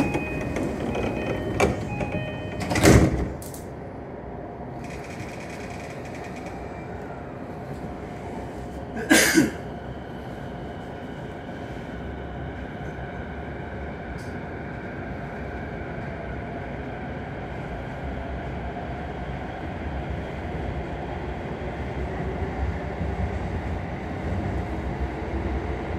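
Train door-closing chime beeping, then the sliding doors shutting with a loud thud about three seconds in and a second loud bang around nine seconds. After that the electric train runs steadily as it pulls out of the station, growing slowly louder as it speeds up.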